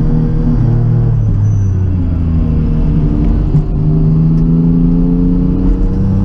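Rally car engine heard from inside the cabin under way. The revs dip about two seconds in, then climb steadily as the car pulls along the road.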